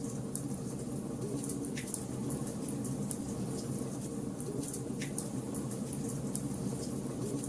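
Wood fire burning in a fireplace: a steady low rush of flames with constant fine crackling, and two sharper pops, one near two seconds in and one about five seconds in.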